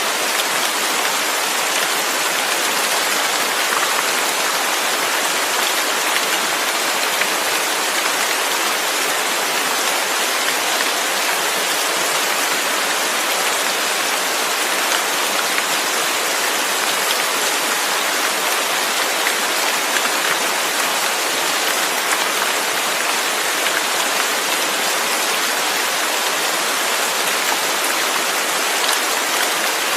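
Steady rain falling, a constant even hiss of drops with no thunder or other events.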